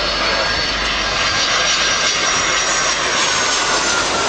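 Boeing 757 airliner's twin turbofan engines in a low display pass: a loud, steady jet roar with a high whine that drifts slightly lower in pitch.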